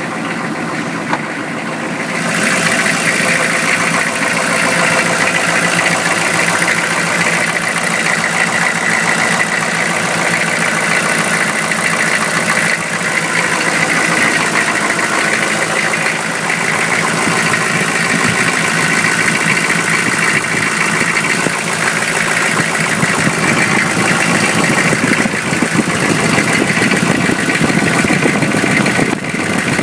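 GM 6.5-litre turbo diesel V8 idling steadily while it warms up after a cold start at −15 °C. It gets louder about two seconds in and then holds steady.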